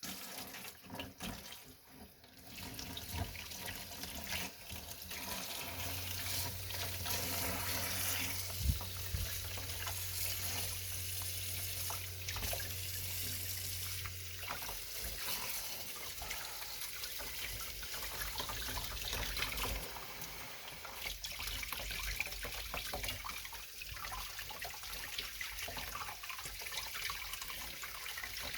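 Tap water running steadily into a sink, with a low hum through the middle stretch.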